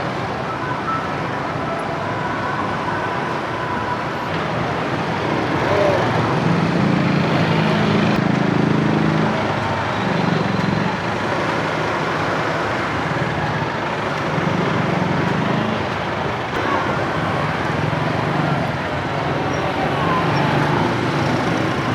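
Street traffic: motorcycles and other vehicles running past in a steady mix of engine and tyre noise. The engine hum is a little louder in the middle.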